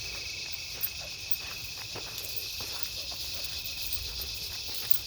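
A steady, high-pitched chorus of insects trilling, with scattered light crunches and snaps of footsteps on the trail.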